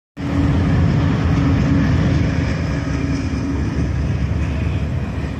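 Train passing, a loud steady rumble with a steady hum that drops away about three and a half seconds in.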